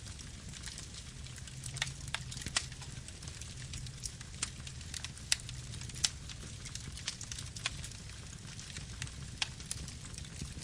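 Campfire burning: a steady low rumble with irregular sharp crackles and pops from the burning wood, about one or two a second.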